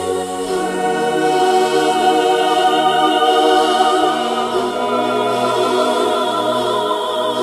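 Background music: a choir singing sustained, wavering notes over a low bass line.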